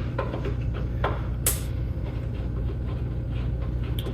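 Light clicks and taps of small screws and metal parts being handled during disassembly, with one sharper click about a second and a half in, over a steady low hum.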